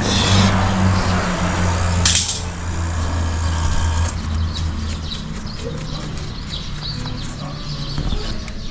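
A steady low mechanical hum, louder for the first five seconds and then fainter, with two short hisses, one right at the start and one about two seconds in.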